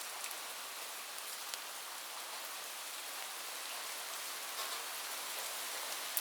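Steady rain falling on a roof: an even hiss with scattered sharp ticks of single drops, one a little louder near the end.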